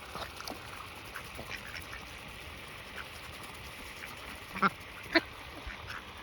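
Ducks feeding on a pile of cracked sunflower seeds: many small, quick pecking ticks, with two short, louder quacks about four and a half and five seconds in.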